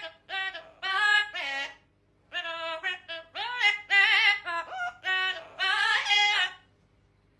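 Parrot singing in short, wavering, voice-like phrases, with a brief pause about two seconds in, stopping about a second before the end.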